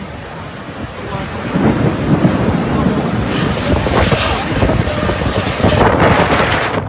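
Storm wind buffeting the microphone: a loud, rushing, gusty noise that swells about a second and a half in.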